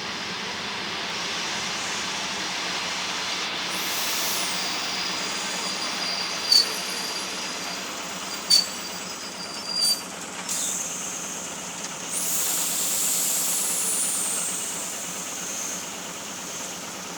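ER2R electric multiple unit running on the rails, with steady rolling noise. A thin high-pitched squeal holds through the middle and is broken by three short loud cracks. Near the end a high whine slides down in pitch.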